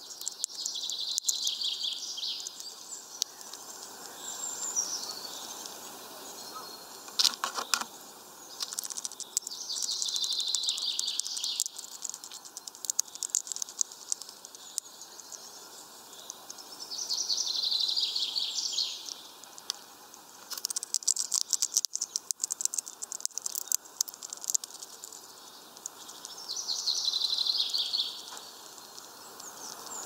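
A songbird sings a short high phrase four times, about every eight seconds. Between the phrases come sharp clicks and taps, the loudest a quick cluster about seven seconds in: a hawfinch pecking and cracking sunflower seeds at a feeder.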